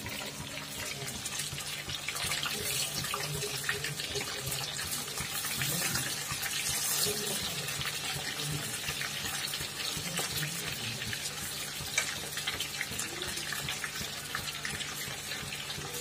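Marinated chicken pieces deep-frying in hot mustard oil in a kadai over medium heat: a steady sizzle full of small crackles, with one sharper pop about twelve seconds in.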